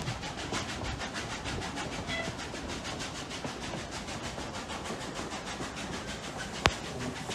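Steam train double-headed by locomotives Rx207 and 621, heard on board while running, with a fast, even rhythmic beat. A single sharp click about six and a half seconds in.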